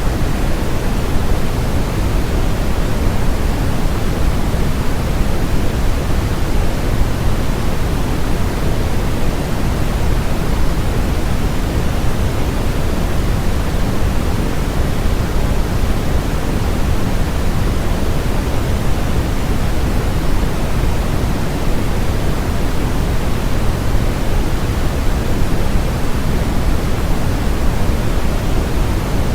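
Steady electronically generated noise, an unchanging hiss with more weight in the low end than the top, like pink rather than pure white noise.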